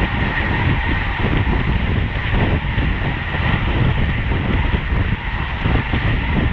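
Wind rushing over a bicycle-mounted action camera's microphone, with tyre and road noise, while riding at race speed. The rumble is loud and steady throughout, with a faint steady whine under it.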